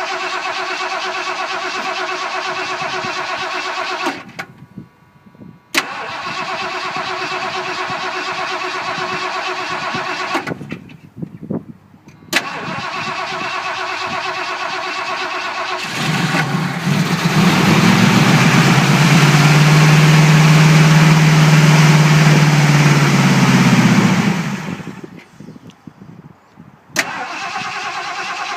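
Ford Torino being cranked over by its starter motor on a cold start, in several spells broken by short pauses, each restart marked by a click. About halfway through the engine catches and runs louder and lower for roughly eight seconds, then dies, and the cranking starts again near the end; the owner puts the failed start down to ignition timing that is probably completely off and a near-empty fuel tank.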